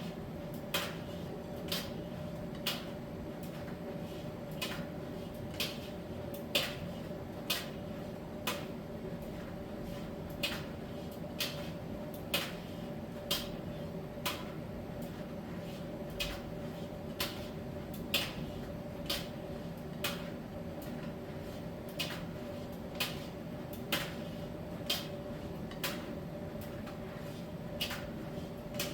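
Miele T1 heat-pump tumble dryer running through its drying phase: a steady hum with light knocks about once a second as the load tumbles in the drum.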